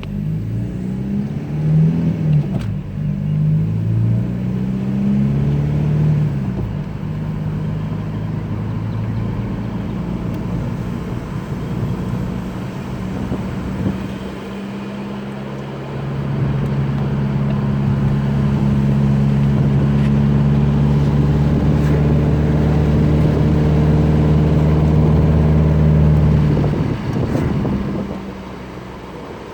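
2010 Jetta TDI's four-cylinder turbodiesel running through a 3-inch straight-piped exhaust while driving. Its pitch rises and falls several times in the first few seconds, then settles into a steady drone that grows louder about halfway through and drops away shortly before the end.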